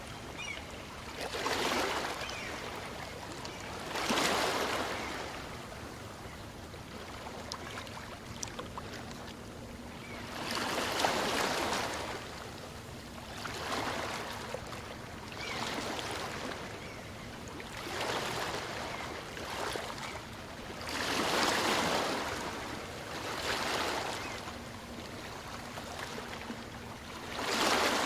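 Small waves on a calm sea breaking and washing up the beach, coming in surges every two to three seconds over a steady background wash.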